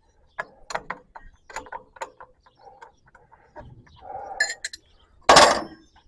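Wrench work on a tractor's fuel-line fitting: irregular metal clicks and short scrapes as the fitting is turned, then one loud clank about five and a half seconds in.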